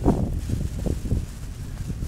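Gusty wind buffeting the microphone, a low uneven rumble that is strongest just after the start and eases off.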